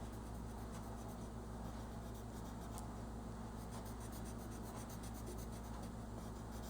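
Colouring strokes on paper: a faint, steady scratching of rapid back-and-forth strokes as a coat of colour is laid down, over a low electrical hum.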